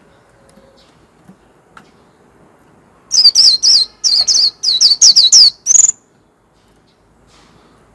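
White-eye (vành khuyên) singing: after a quiet start, a quick burst of high, sharp chirping notes begins about three seconds in and runs for nearly three seconds in three close runs, ending on a rising note.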